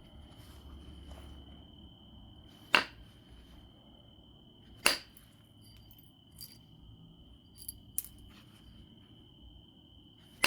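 Flintknapping on an obsidian biface: two sharp glassy clinks about two seconds apart as flakes are struck off, then a few lighter ticks and another sharp strike at the end, over a faint steady high tone.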